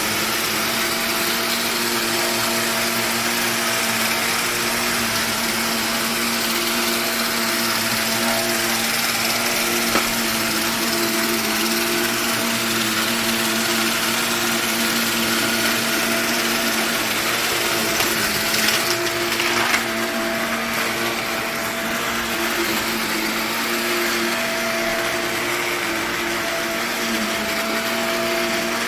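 Vacuum motor of carpet-cleaning equipment running steadily on an old nylon carpet, a constant whine with a hum underneath. There is a sharp click about ten seconds in and a few more around eighteen to twenty seconds.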